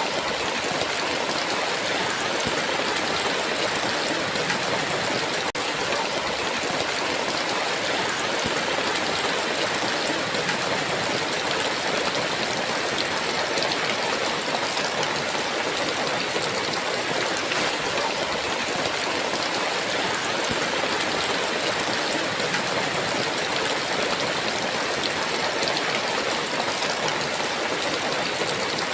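Heavy rain pouring down as a steady, even hiss, with no thunder.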